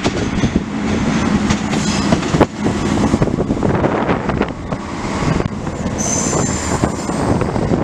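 Passenger multiple-unit train passing close below, its wheels clattering over rail joints and points. A high-pitched wheel squeal sets in about six seconds in.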